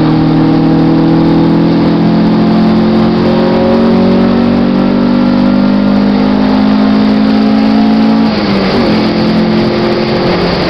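Honda Civic engine heard from inside the cabin, pulling hard under full throttle, its pitch climbing steadily for about eight seconds. Near the end the note drops at an upshift, then starts climbing again.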